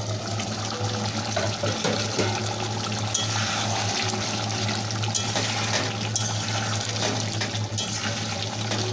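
Chicken curry gravy bubbling and simmering in an open pan, a steady wet bubbling with a low hum underneath. The chicken is nearly cooked but needs a little longer.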